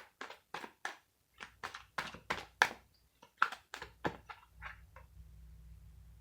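Tarot cards being handled: an irregular run of about fifteen sharp taps and snaps over five seconds, then a faint low hum.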